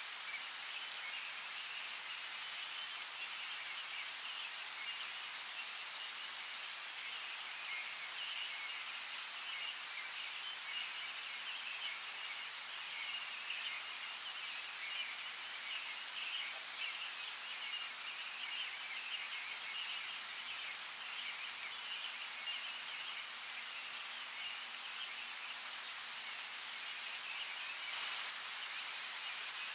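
Steady rain hiss with occasional single drops ticking, and a dense, continuous chatter of birds chirping over it.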